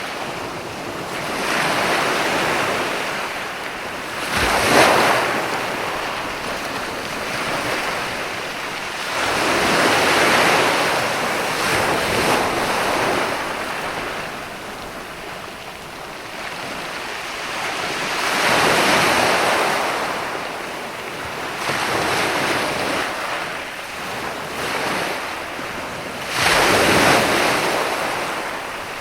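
Ocean surf washing onto a sandy beach: waves swell and break in slow repeated surges every few seconds. The sharpest crashes come about five seconds in and near the end.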